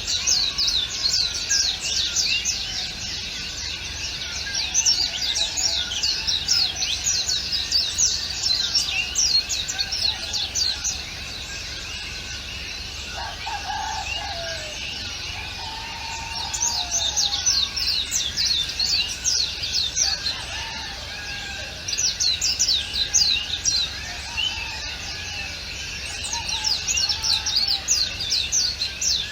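Songbirds singing in a dense chorus of rapid, high chirps and trills. The chirps come in bouts of several seconds each, and a lower warbling call sounds about halfway through.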